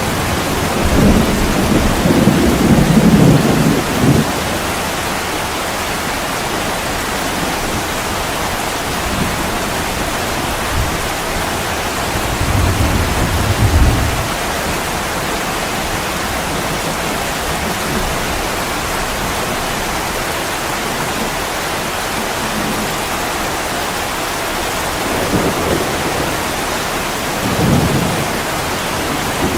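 Heavy rain pouring steadily on a window glass, a dense even hiss. Low rumbles swell under it three times: about a second in, near the middle, and near the end.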